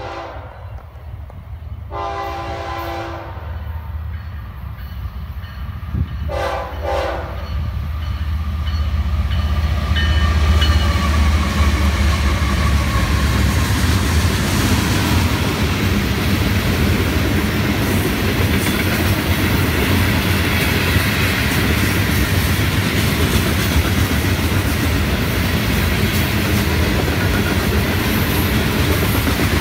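A Florida East Coast Railway freight train led by two GE ES44C4 diesel locomotives approaches a grade crossing. The lead locomotive's horn gives a brief blast, then longer blasts about two and six seconds in. The locomotives' low engine rumble peaks about ten seconds in, then the hopper cars' wheels clatter steadily over the rails.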